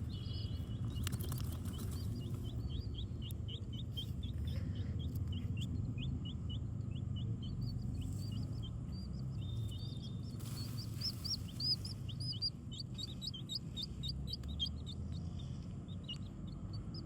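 A bird chirping over and over, short high chirps at about two to three a second, coming faster near the middle. A steady low rumble lies under it.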